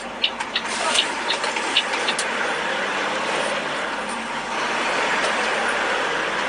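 Steady vehicle road noise, with a few sharp clicks in the first two seconds.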